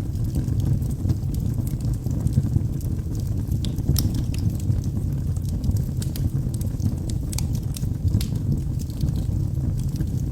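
Wood fire burning in a fireplace: a steady low roar of the flames with scattered sharp crackles and pops from the logs, a few of them clustered about four seconds in and again around seven to eight seconds.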